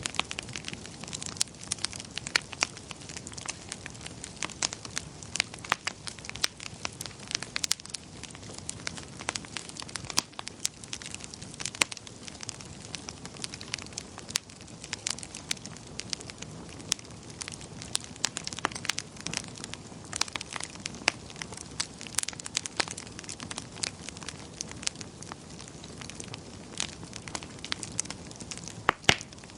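Wood fire burning in a fireplace, crackling and popping with many sharp, irregular snaps over a steady soft hiss of flames.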